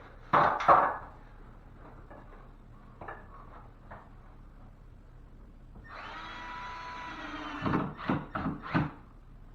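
Two loud knocks, then a cordless drill running steadily for under two seconds, followed by a quick run of knocks: wood backing being screwed and fitted into ceiling framing.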